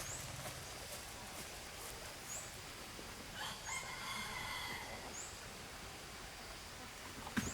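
A rooster crowing once, about three seconds in, for about a second and a half. Short high chirps come every second or two over a faint steady hiss.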